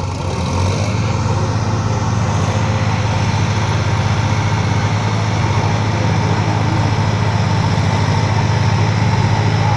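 Heavy diesel engine running steadily, with a fast, even pulse and a low hum; it picks up slightly about a second in.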